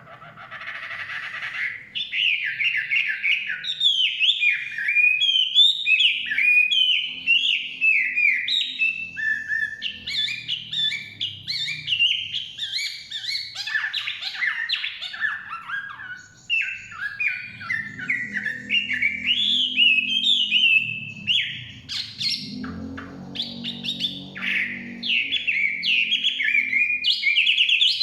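Chinese hwamei singing a long, varied song of rapid whistled phrases that swoop up and down, with only brief breaks. A faint low rumble sits underneath for several seconds past the middle.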